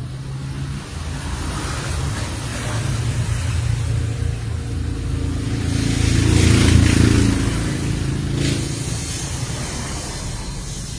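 A motor vehicle going past, its engine rumble growing louder to a peak about two-thirds of the way through and then fading.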